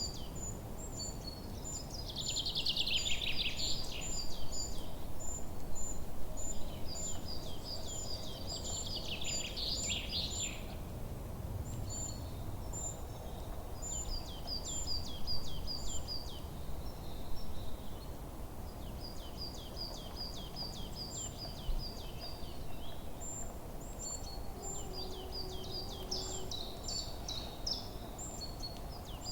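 Songbirds in a forest: several birds repeating short, high chirps, with two louder bursts of rapid notes about two and nine seconds in, over a low steady background rumble.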